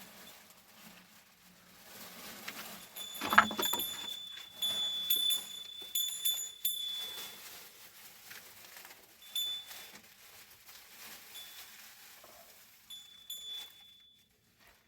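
Metal ringing: about three seconds in, a knock sets off a clear high tone that rings for several seconds. Shorter rings of the same tone follow near the end.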